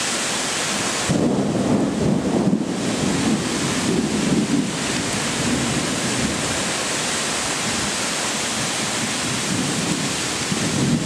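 Thunderstorm downpour: heavy rain pouring steadily. Uneven low rumbling surges through it from about one second in to about five seconds, and again near the end.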